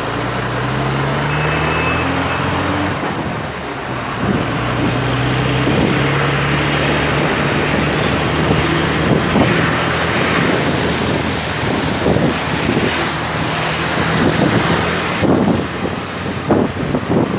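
Motor vehicle running on the road: a steady engine hum over road and wind noise. The engine's pitch shifts over the first few seconds, then holds steady. A run of knocks near the end.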